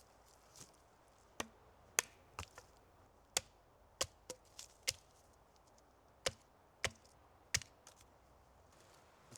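Wood being chopped: a string of about a dozen sharp, irregularly spaced blows, some in quick pairs. The loudest come about two seconds in and near the end.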